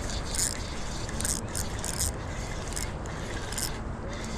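Fishing reel rasping in short, irregular bursts as a hooked shad is reeled in, over a steady low background rush.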